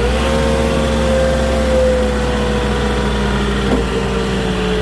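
Moffett truck-mounted forklift's engine revving up and holding at raised revs while it works the hydraulics to lift a pallet, then easing down slightly.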